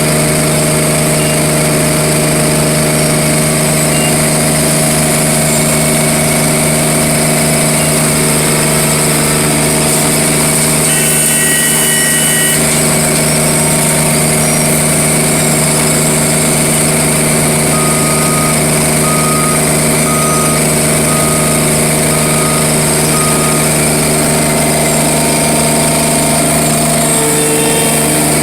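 A large engine-driven machine running steadily with a constant hum. A brief two-tone electronic beep sounds about eleven seconds in, and a run of short beeps comes later.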